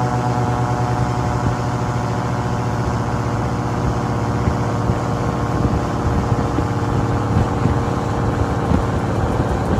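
Airboat's engine and propeller running steadily at a constant pitch.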